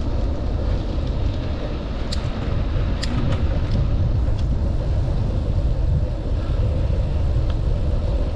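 Steady low rumble of wind on the microphone and tyres rolling while a bicycle is ridden along a paved trail, with a few light clicks and rattles about two and three seconds in.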